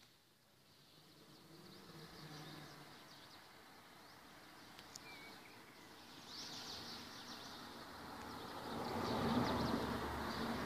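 Small birds chirping faintly, many short high chirps over a low background noise. A broader rush of noise builds up in the last few seconds and becomes the loudest sound.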